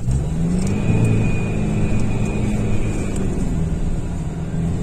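An off-road 4x4's engine revving, its pitch rising over the first second and then holding steady, as the car tries to drive out of ground where it is stuck. A thin high whine runs for about two seconds in the middle.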